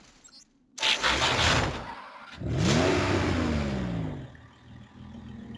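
Cartoon sound effects: a loud rushing crash about a second in, then a second long rush with a pitch sliding downward as it fades. A quieter steady hum follows near the end.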